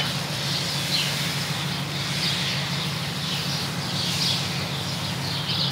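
Birds chirping over and over in short, high, falling chirps, over a steady low hum.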